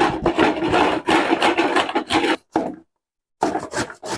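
Cucumber being sliced: a quick run of rasping, scraping cuts. It breaks off briefly about three seconds in, then starts again.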